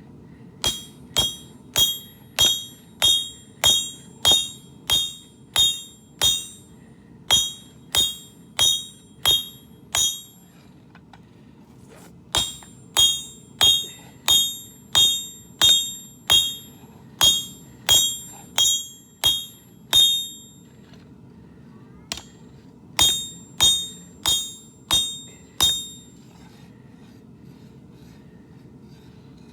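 Hand hammer striking hot steel on an anvil, about two ringing blows a second, in four runs with short pauses: flattening and thinning out a hoe blade.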